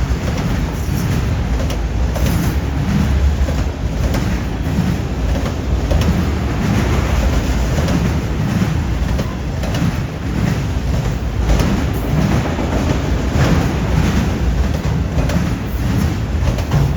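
Freight train cars rolling past at close range: a loud, steady rumble with irregular clacks from steel wheels passing over the rail joints and the junction switch.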